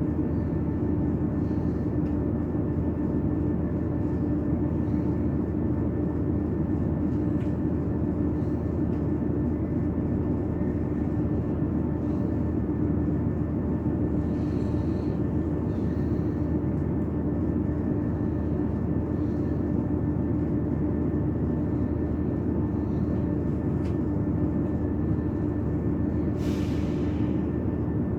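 Steady drone inside a train carriage, with a constant hum in it and a few faint ticks.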